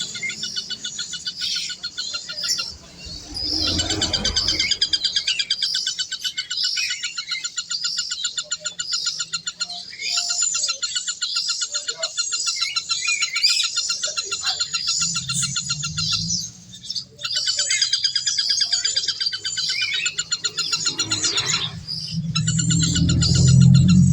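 Many birds chirping and chattering continuously in a dense, rapid high chorus. A few low rumbles come through about four seconds in, around the middle, and most strongly near the end.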